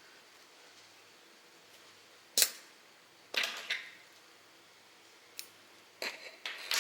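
Scissors snipping thread ends: one sharp snip about two and a half seconds in, two more in quick succession about a second later, then a few small clicks near the end.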